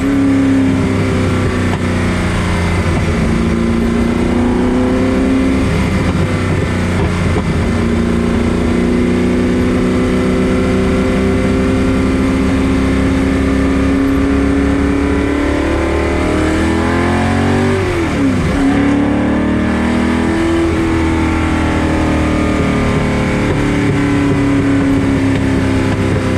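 Roush 427 V8 of a Superformance Ford GT40 Mk II, heard from the passenger seat, running at a steady cruise with slow rises and falls in engine speed. About three-quarters of the way through, the revs drop sharply and climb again.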